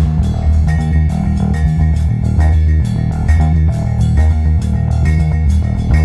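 Rock music with a loud, prominent bass guitar line and plucked electric guitar over it, in a steady, repeating rhythm.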